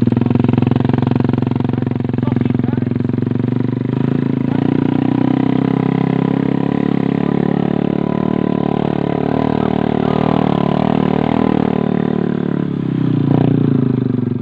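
Motorcycle engine running steadily at low speed, its note shifting about four seconds in and dipping briefly near the end.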